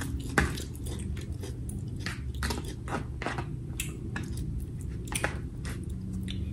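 A person chewing food close to the microphone: a run of short, irregular mouth clicks and smacks.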